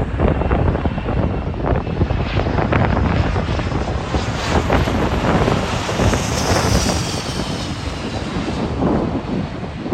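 Private jet's engines passing overhead, with a high whine that falls in pitch from about four to eight seconds in. It is heard through heavy gusty wind buffeting on the microphone.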